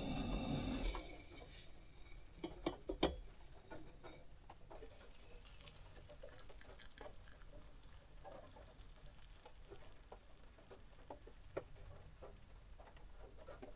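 A steady running noise cuts off about a second in. After it come scattered, irregular drops of rain tapping on a kei van's roof, a few louder taps between two and three seconds in.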